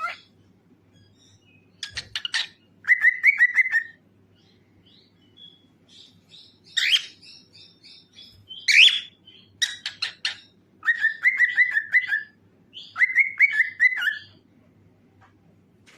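Cockatiel chirping and whistling in short bursts of sharp calls and quick runs of repeated notes, with brief pauses between them.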